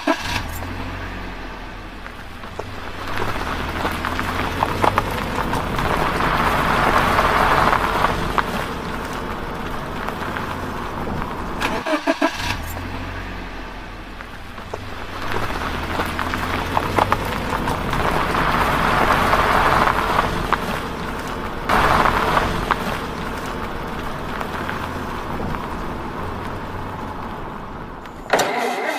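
A vehicle engine running with a steady low hum that swells louder and eases off again. The rise-and-fall pattern repeats after about twelve seconds.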